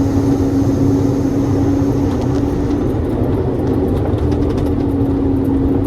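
Truck driving at speed heard inside the cab: a steady engine and road drone with a constant hum.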